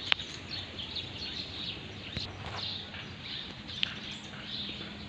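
Outdoor ambience with scattered short bird chirps over a steady background hiss, and a couple of sharp clicks.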